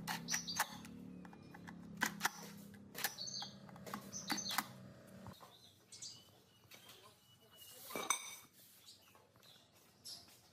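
Metal clinks and knocks of parts being handled, several sharp strikes in the first half and one more near the end, over a low steady motor hum that cuts off about halfway through.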